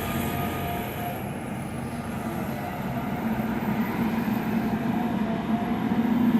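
Diesel engine of a John Deere 350G LC hydraulic excavator running under digging load, steady at first and growing louder over the last few seconds. This is the machine that, by the operator's account, hesitates when its bucket hits gravel, unlike a 385.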